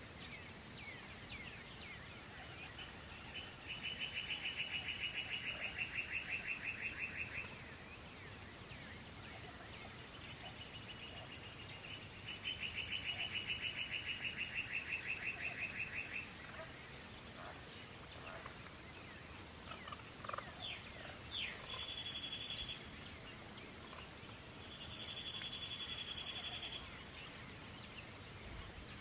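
Crickets chirping at twilight: a steady, continuous high ringing chorus. Over it, trills of rapid even pulses come and go every few seconds, and a few short chirps sound in the second half.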